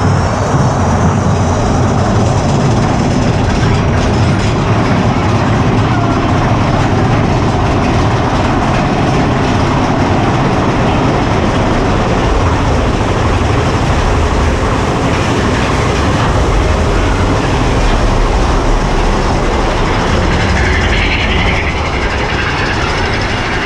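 Mine-train roller coaster cars rolling along the track: a steady, loud rumble and clatter of wheels on rail.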